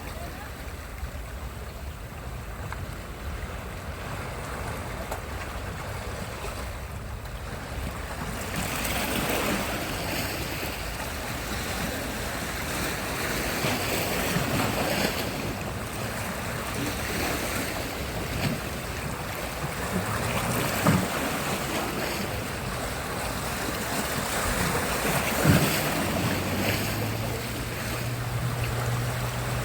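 Sea surf: waves washing in and breaking, the noise swelling every few seconds, with wind on the microphone. A low steady hum joins in near the end.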